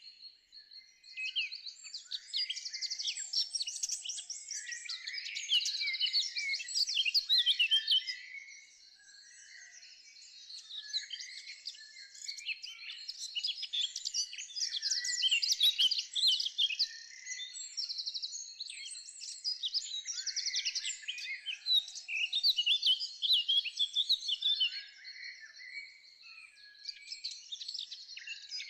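Several songbirds singing and chirping at once, rapid trills and short calls overlapping, with a brief lull about a third of the way through.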